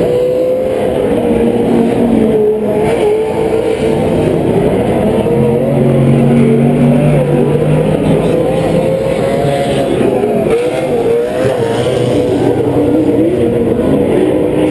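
Several PRO 4 four-wheel-drive short-course off-road race trucks running hard, their engines revving at once with pitch wavering up and down.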